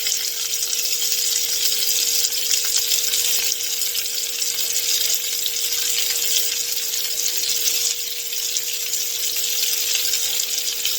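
Bacon-wrapped chicken pieces sizzling steadily in a hot pan as they are seared and sauced, with a faint steady hum underneath.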